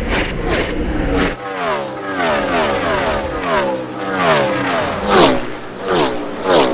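NASCAR Car of Tomorrow stock cars with V8 engines at full throttle passing one after another. Each engine note drops in pitch as it goes by, a new car every half to three-quarters of a second from about a second and a half in, after a steady low rumble.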